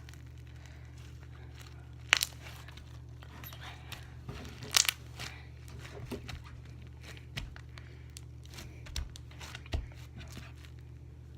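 Foam-bead slime being stretched and squeezed by hand to make a bubble, giving scattered crackles and sticky pops, the loudest about two and five seconds in, over a steady low hum.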